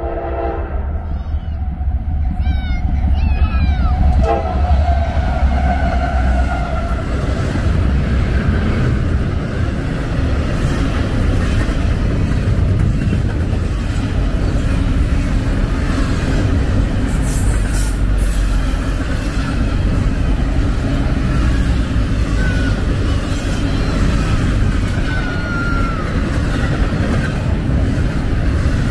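Norfolk Southern freight train passing: the diesel horn's chord ends just after the start, then the locomotives' low rumble builds and a long train of double-stack intermodal well cars rolls by with steady wheel-on-rail noise and a few brief wheel squeals.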